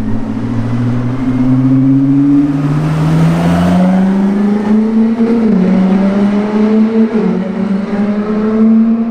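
Koenigsegg Jesko Attack's twin-turbo V8 accelerating hard. The engine note climbs steadily in pitch and dips sharply at each quick upshift, about five and seven seconds in and again near the end, climbing again after each one.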